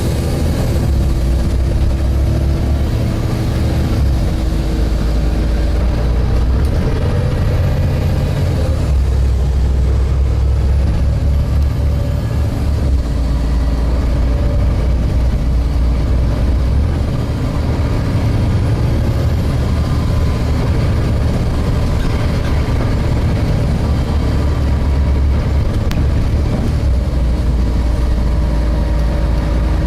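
Engine and drivetrain of a Volvo B7TL double-decker bus, heard from inside while it drives. A strong low rumble rises and eases several times, with faint steady whines above it.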